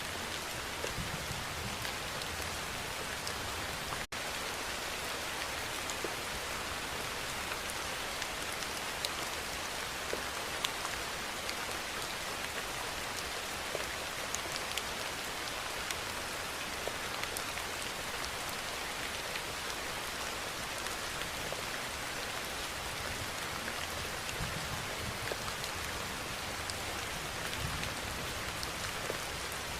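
Steady rainfall, an even hiss of rain with many small drop ticks scattered through it. About four seconds in there is a momentary dropout.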